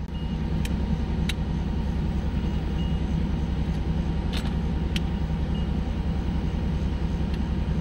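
Buick Reatta's 3.8-litre V6 idling steadily with an even low pulse, with a few faint small clicks from a glove box latch being worked by hand.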